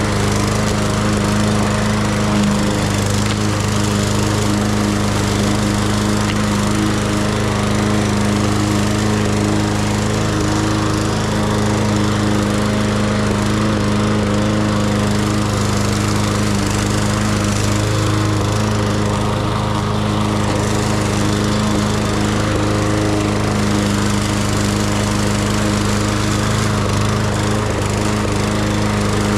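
Petrol lawn mower engine running steadily under load while cutting grass, at an even pitch and level throughout.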